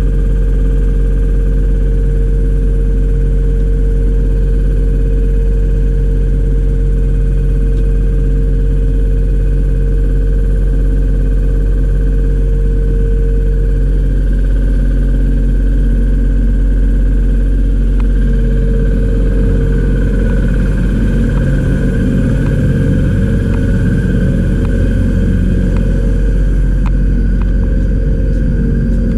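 A machine's motor running with a steady hum. From about two-thirds of the way through, a rougher, noisier layer with scattered ticks joins it.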